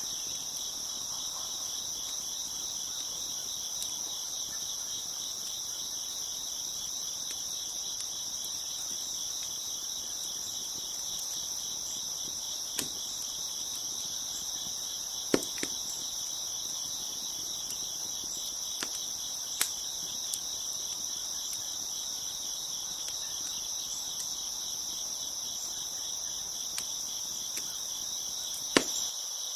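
Crickets chirping in a steady, dense chorus, with a few sharp pops from a crackling wood fire scattered through it, the loudest near the end.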